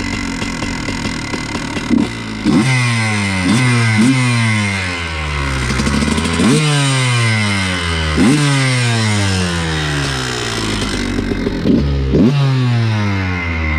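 Honda CR125's single-cylinder two-stroke engine revved in a series of about eight sharp throttle blips. After each blip the revs slide down over a second or so.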